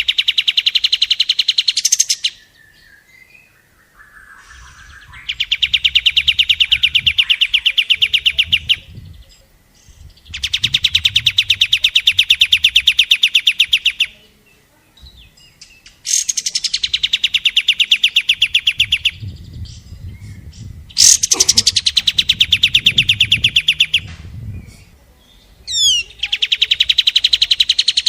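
Kapas tembak songbird singing fast, tightly packed trills of two to four seconds each, six bouts with short pauses between, some opening or ending with a sweeping note. This is a masteran recording used to teach the song to konin birds.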